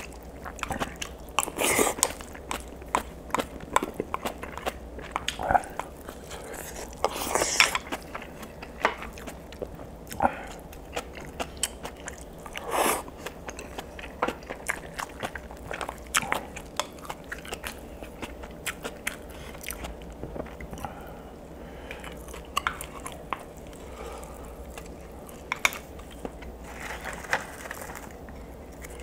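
A person eating braised mackerel and aged kimchi close to the microphone: chewing and biting, with many irregular small mouth clicks and a few louder moments.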